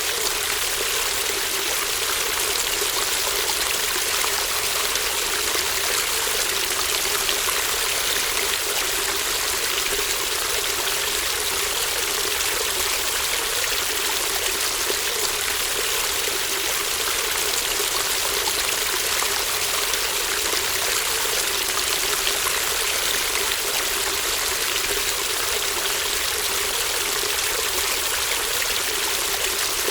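Shallow brook babbling: running water trickling and splashing over stones in an even, unbroken wash.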